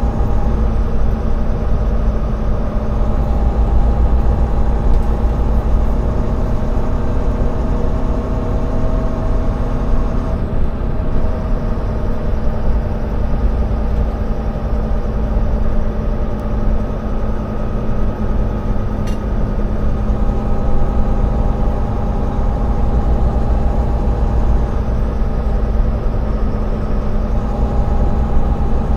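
Semi tractor's diesel engine running steadily with a deep, even drone, its pitch shifting only slightly.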